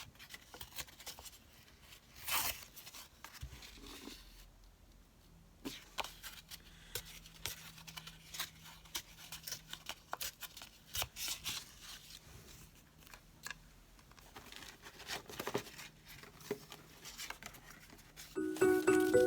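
Quiet, irregular paper handling: scattered snips, rips and rustles of paper being cut and torn by hand. A tune starts near the end.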